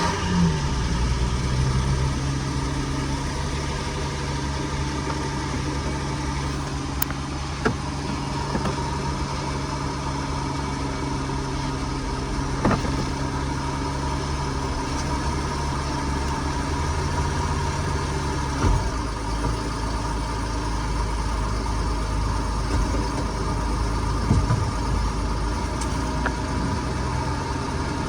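Car engine idling steadily just after being started. About two-thirds of the way in, the idle note changes and drops lower.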